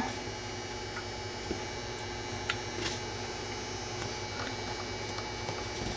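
Steady electrical hum, with a few faint ticks and clicks of thin jewellery wire being handled and wrapped around a crystal.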